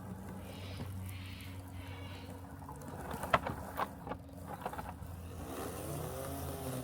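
Robotic lawn mower running with a steady low hum, with a few sharp clicks or knocks about three to four seconds in and a tone that glides up and back down near the end.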